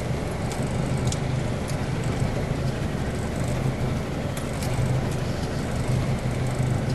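Four-wheel drive crawling in low range over a rough, rocky river crossing: a steady low engine hum under the noise of the vehicle bouncing, with scattered sharp rattles and knocks as it lurches over the rocks.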